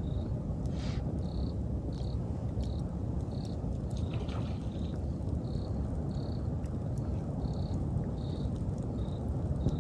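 Campfire crackling, with sharp pops and snaps over a steady low rush, while an autumn insect chirps short, high notes roughly every half second to second.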